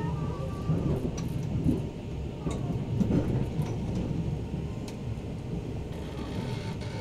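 Tobu 100 series Spacia electric train moving slowly: a steady low rumble with a few sharp clicks scattered through it.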